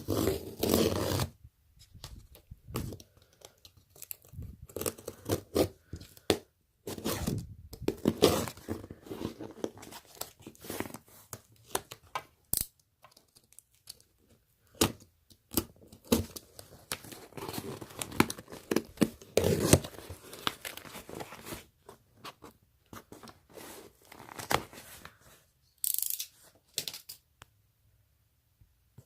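Packaging being unwrapped by hand: irregular tearing and crinkling of wrapping material, in stop-start bursts with small clicks and handling noises.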